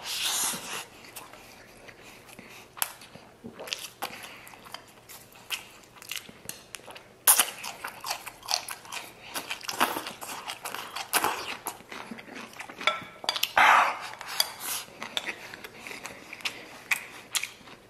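Close-up chewing and biting: a mouthful of rice chewed with lip smacks, then crisp crunching on a pickled long bean, a fast run of crackly clicks that gets denser and louder about halfway through.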